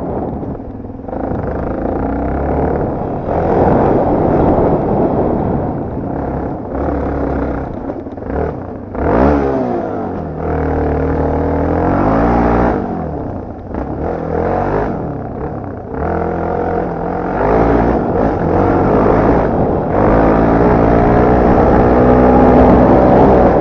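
Dirt bike engine revving hard and easing off again and again, its pitch climbing and dropping with throttle and gear changes, loudest near the end.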